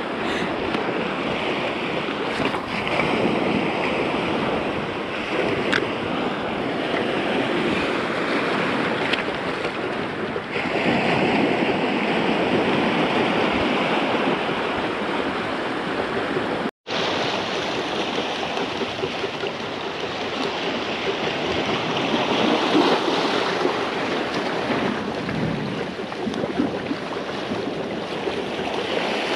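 Small waves washing and breaking against the shore, with wind on the microphone; the sound cuts out for a moment about two-thirds of the way through.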